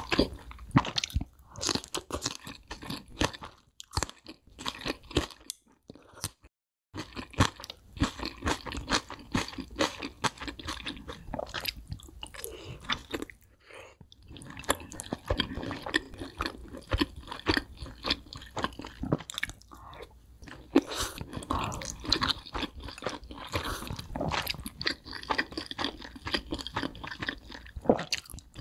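Close-miked chewing and crunching of crispy fried chicken wings, a dense run of crackles that stops briefly about six seconds in and pauses a few more times.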